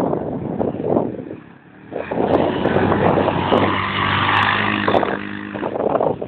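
Motorcycle engine running loudly, easing off briefly about two seconds in, then running again.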